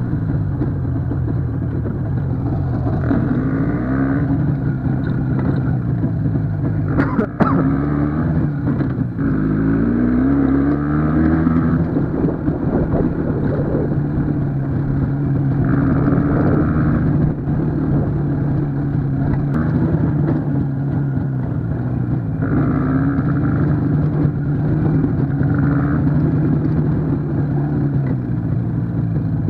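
IZh two-stroke motorcycle engine running while riding. Its pitch rises and falls several times with throttle and gear changes, and there is a sharp knock about seven seconds in.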